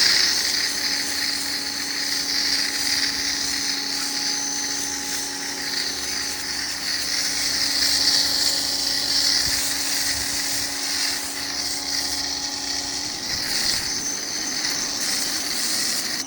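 Pressure washer running with a foam sprayer, a steady hiss of spray over a constant motor-pump hum; the hum drops away about 13 seconds in while the hissing goes on.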